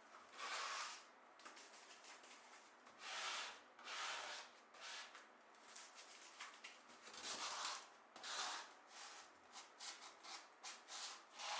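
A series of irregular rubbing strokes, each about half a second to a second long, like a hand or cloth rubbing across a surface.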